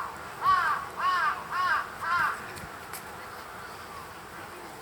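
A crow cawing in a quick series of four harsh caws about half a second apart, each rising then falling in pitch, with fainter calls afterwards.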